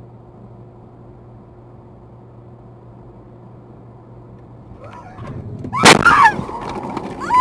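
Steady low rumble and hum of a car on the move, heard through a dash camera, then a sudden loud bang about six seconds in, followed by high-pitched wavering cries or squeals.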